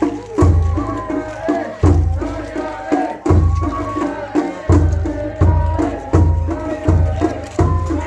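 Japanese festival float music (matsuri-bayashi): a big drum beats heavily and regularly under quicker, lighter drum hits and a held, wavering melody line.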